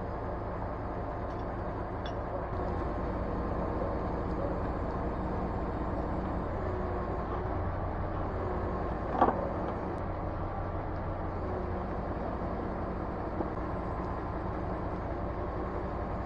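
Engine of a truck-mounted crane (manipulator truck) running steadily while unloading bricks, with one short knock about nine seconds in.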